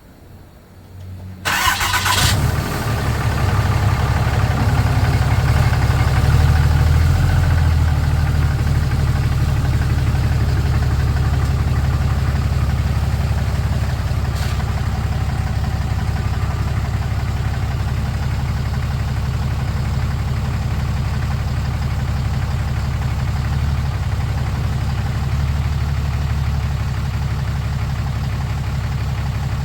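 A 2014 Ram 2500 pickup's engine cranking and catching about a second and a half in, then idling steadily.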